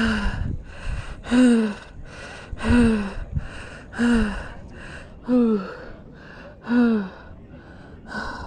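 A runner's heavy, labored breathing: a voiced gasp on each exhale, falling slightly in pitch, about every 1.3 seconds, with hissing inhales between. Out of breath after a hard uphill trail run.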